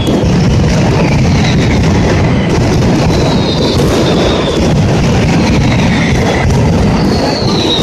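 A mascletà's firecrackers going off in a dense, unbroken barrage that merges into one continuous rumbling crackle, with a few falling whistles above it.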